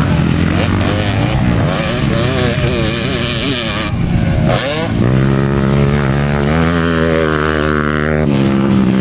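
Motocross dirt bike engines running and revving, the pitch wavering and then climbing in steps.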